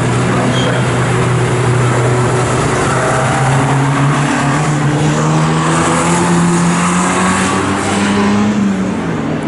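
Historic touring car racing engines running hard, their pitch climbing steadily for several seconds under acceleration, then dropping back near the end.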